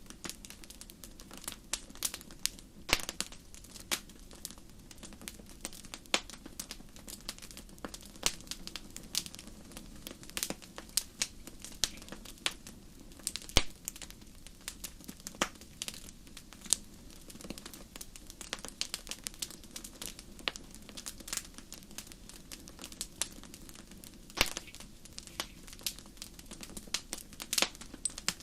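Wood fire crackling: irregular sharp pops and snaps, a few of them louder, over a soft steady low rumble of the burning fire.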